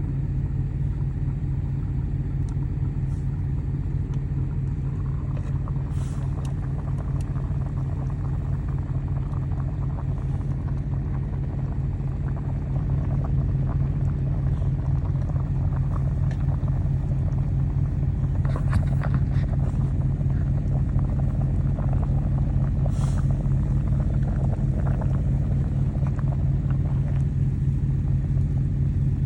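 Truck engine running steadily with a deep, even rumble, getting a little louder about halfway through.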